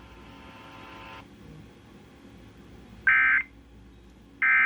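Emergency Alert System end-of-message data bursts played over FM radio: two short, shrill digital buzzes about a second and a half apart, marking the end of the severe thunderstorm warning broadcast. A faint hiss fades out about a second in, before the first burst.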